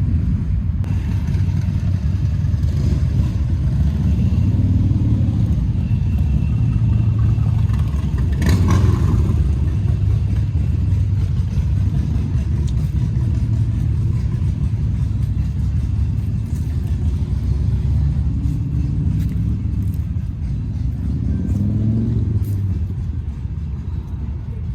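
A vehicle engine running with a steady low rumble, and a sharp click about eight and a half seconds in.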